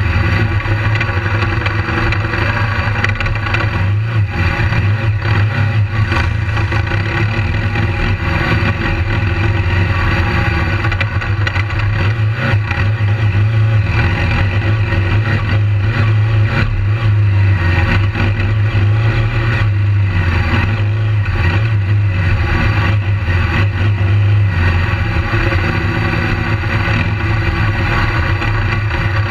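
BMW GS adventure motorcycle's engine running continuously as it is ridden over a dirt track, heard close up through the bike-mounted camera with wind and riding noise over it.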